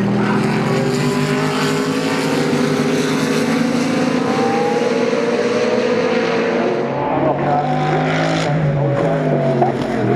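GT3 race cars' engines at racing speed, several at once, their pitch slowly rising, then changing about seven seconds in.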